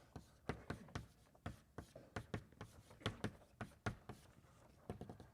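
Chalk writing on a blackboard: a run of sharp, irregular taps and clicks, two or three a second, as the lecturer writes out a line.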